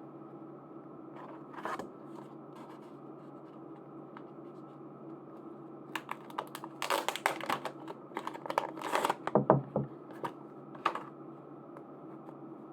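Hands handling and opening merchandise packaging: plastic and paper rustling, tearing and small clicks. One brief clatter comes early, and a dense flurry runs from about six to ten seconds in, over a steady low hum.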